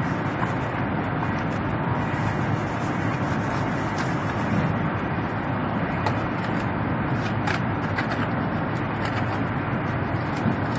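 Steady, even running noise of a high-speed bullet train heard inside the passenger cabin while the train travels at speed.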